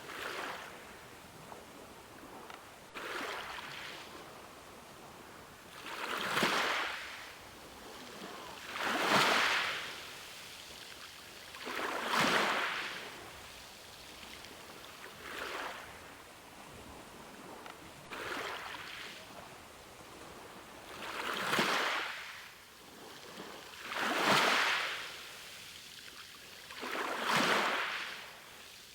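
Ocean waves breaking and washing in: a surge of surf hiss about every three seconds, each swelling and fading over about a second, over a constant low wash of water. Some surges are louder than others.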